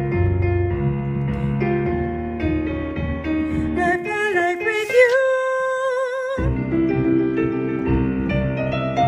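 Piano accompaniment playing chords, then a soprano voice sings a quick rising run about four seconds in and holds a high note with vibrato for about a second and a half while the piano stops; the piano then comes back in.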